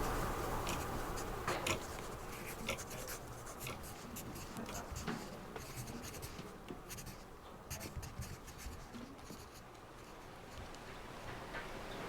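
Pen writing on paper in a quiet room: irregular short scratches and light taps, busier in the first couple of seconds and sparser later.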